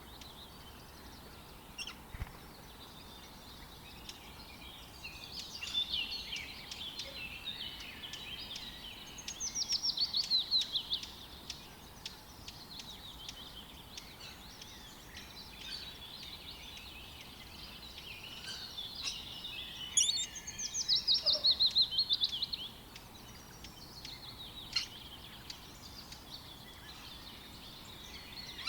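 Wild birds chirping and singing, with two loud rapid trills of quickly repeated falling notes, one about ten seconds in and another about twenty seconds in.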